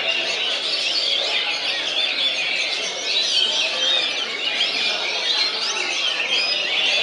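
Many caged songbirds singing at once: a dense, continuous chorus of rapid high chirps and whistles overlapping each other.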